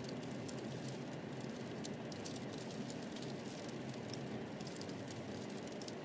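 Steady road and engine noise inside a moving car's cabin, driving on a snow-covered road, with faint scattered high ticks.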